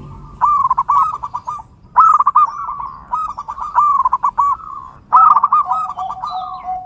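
Zebra dove (perkutut) singing: phrases of quick, rolling cooing notes, repeated four times, with faint chirps from small birds. A lower held note sounds under the last phrase near the end.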